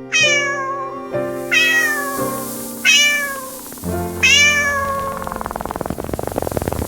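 A cat meowing four times, about every second and a half, each meow falling in pitch, over soft sustained background music.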